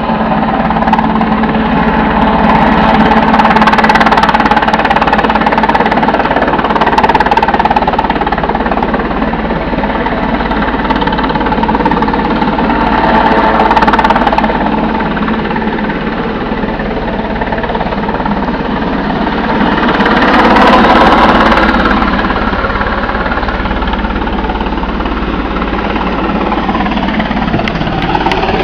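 Helicopter circling overhead: a steady engine drone with a rapid rotor chop, swelling louder and easing off as it passes around, loudest about 4, 13 and 21 seconds in.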